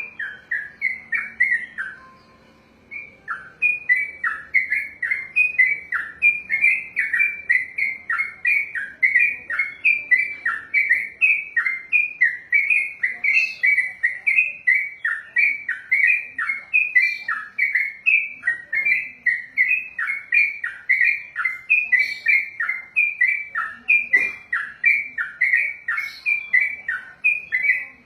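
Yellow-vented bulbul (trucukan) singing a long, fast 'ropel': the same short note repeated over and over in an even rapid string. The song breaks off briefly about two seconds in, then runs on unbroken.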